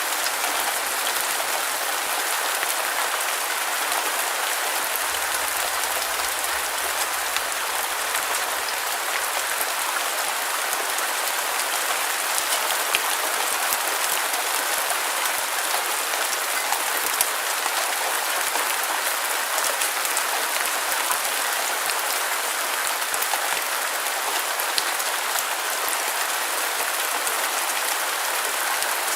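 Steady rain falling on a surface, an even hiss sprinkled with faint individual drop ticks.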